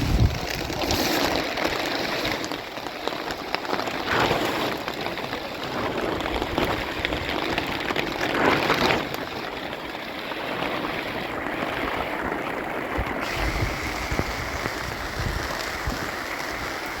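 Heavy rain falling, a steady dense hiss, with brief louder swells about four and eight seconds in.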